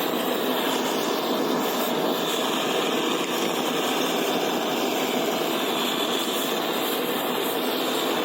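Butane gas torch burning steadily with a continuous rushing hiss, heating the engine casing so a seized bush loosens its grip.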